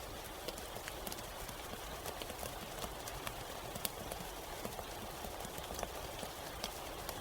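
Steady rain in a forest: an even hiss of falling rain with many individual drops ticking sharply at irregular moments.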